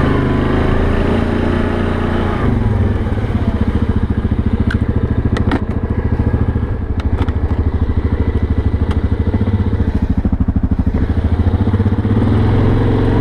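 Yamaha Grizzly 700 ATV's single-cylinder four-stroke engine running while riding. It drones steadily for the first couple of seconds, then drops to a slower, pulsing putter in which the separate firing beats can be heard, and smooths out again near the end. A few sharp clicks sound in the middle.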